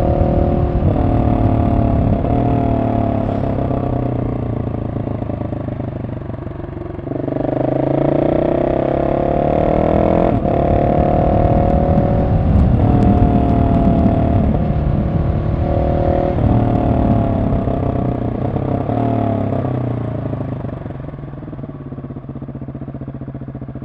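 Husqvarna 701 SM's single-cylinder engine through a decatted Arrow exhaust with the dB killer in, revving up and down through several throttle changes and gear shifts, with a sharp click about ten seconds in. Near the end the engine drops to a quieter, steady low-speed running.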